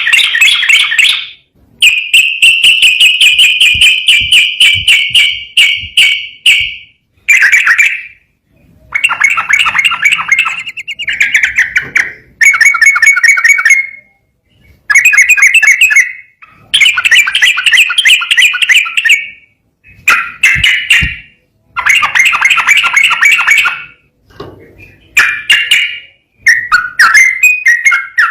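Yellow-vented bulbul (trucukan) singing loudly and clearly: a series of rapid, rolling phrases of quick repeated notes. Each phrase lasts about one to five seconds, with short pauses between them.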